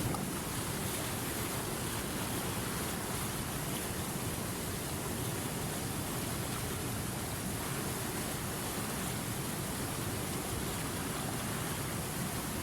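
River water flowing, a steady rushing sound without changes.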